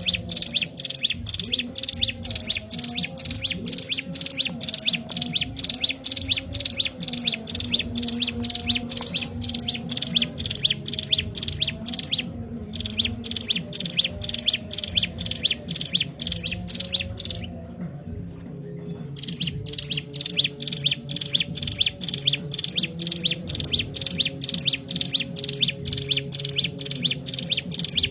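A ciblek gunung (a prinia) singing persistently, a rapid run of sharp high chirps at about four a second. The song breaks off briefly about twelve seconds in and again for about a second and a half near the middle.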